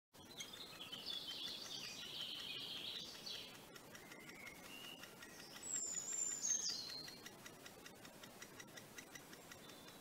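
High bird calls: a dense run of chattering notes over the first three seconds, a few thinner notes after, then a single high whistle falling in pitch about six seconds in.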